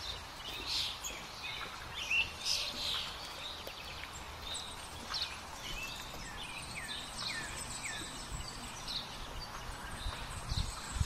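Small woodland birds chirping and singing, many short high notes and quick falling calls scattered throughout, over faint steady low background noise.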